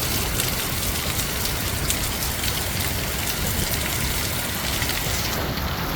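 Heavy wind-driven rain falling steadily, a dense even hiss of many drops.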